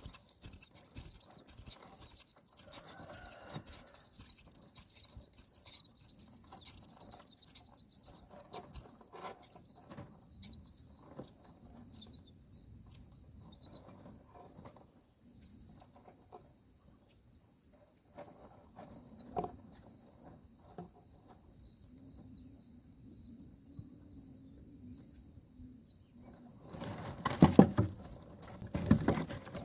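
Common myna nestlings giving rapid, high-pitched chirps, loud and dense for the first several seconds, then fading to scattered chirps. Near the end comes a burst of rustling and thumps in the nest, and the chirping starts up loudly again.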